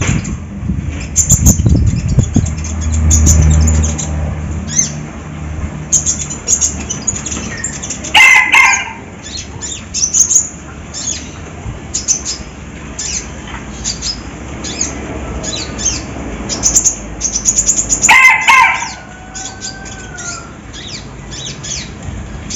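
Konin songbird singing a fast, dense run of short high chirps and trills. Louder, lower calls break in twice, about 8 seconds and about 18 seconds in.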